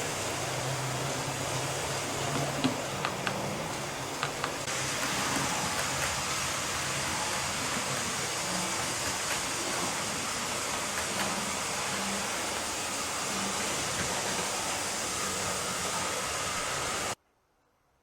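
Hattons 00 gauge P class 0-6-0 model locomotives running around a layout: a steady rushing noise of motors and wheels on track, with a few sharp clicks a few seconds in. The sound cuts off suddenly near the end.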